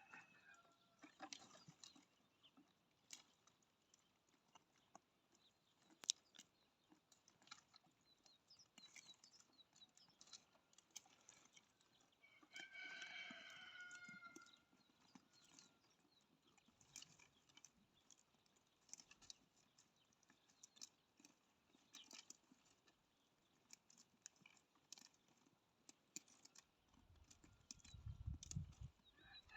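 Faint outdoor farmyard sound: scattered small clicks and rustles throughout, one drawn-out farm animal call of about two seconds midway, and a low rumble near the end.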